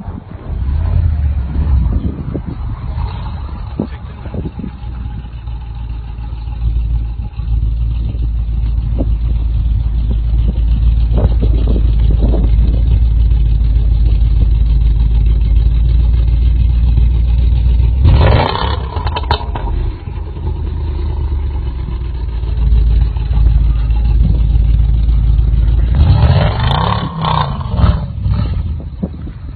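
Range Rover's engine running and revving under load as its wheels spin and churn through deep snow to break free, over a heavy low rumble. It gets louder in sharp bursts about eighteen seconds in and again near the end.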